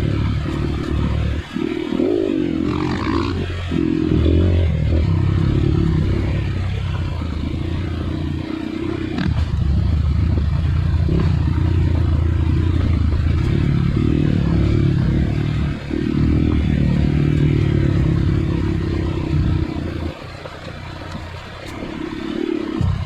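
Dirt bike engine running under changing throttle, repeatedly picking up and easing off. About twenty seconds in it drops to a quieter, lower running for a couple of seconds, then picks up again near the end.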